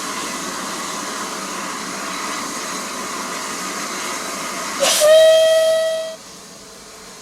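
Steam locomotive hissing steadily with escaping steam, then a single short whistle blast of just over a second about five seconds in, cutting off sharply together with the hiss.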